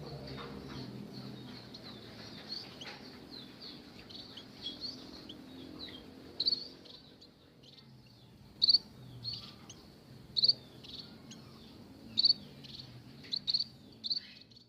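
Munias (emprit) giving short, high chirps again and again, the sharpest and loudest of them coming from about halfway on. A low steady hum runs underneath in the first half and fades out.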